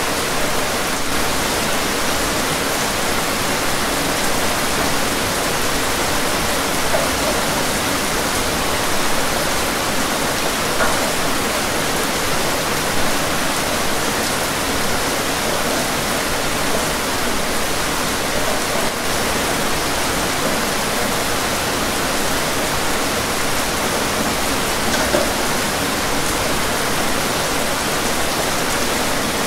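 Rain falling steadily, an even hiss with a few slightly louder drops standing out.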